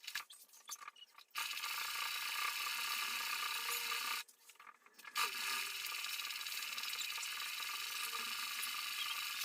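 Sewing machine running steadily as it stitches a straight seam in sailcloth, stopping briefly twice: once right at the start and once about four seconds in.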